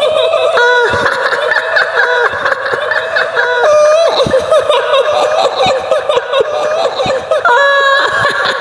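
High-pitched, eerie female cackling laughter, the sound effect used as a kuntilanak ghost's laugh. It runs continuously with a wavering pitch, and more than one laughing voice overlaps.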